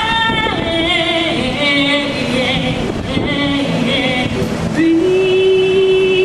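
A woman singing without words: a few short sung phrases, then a long held note from about five seconds in.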